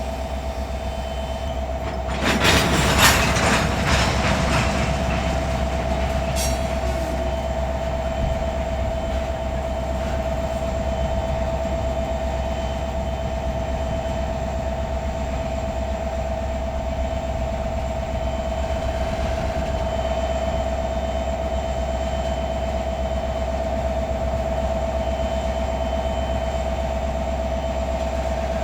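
Diesel locomotive of a freight train running steadily with a low hum and a constant whine. About two seconds in, a loud burst of rattling noise rises and fades over about three seconds.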